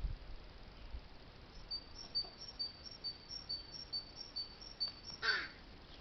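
A small songbird repeats a high, thin two-note phrase about twice a second for several seconds. About five seconds in there is a single loud, harsh bird call that falls in pitch.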